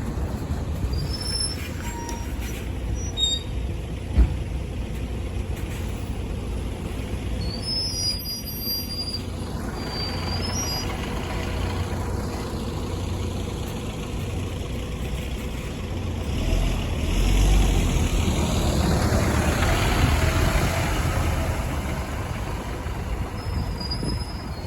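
Diesel bus engine running in street traffic, a steady low rumble that swells to its loudest a little past the middle as a vehicle passes close or pulls away.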